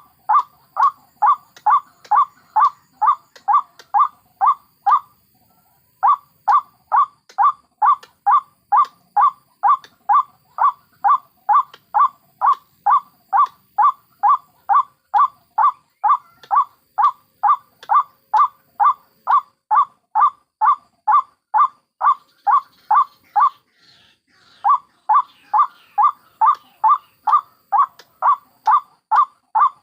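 White-breasted waterhen (ruak-ruak) calling one short note over and over, a little over twice a second, with two brief pauses. This is a monotonous lure-call track used to draw waterhens to a trap.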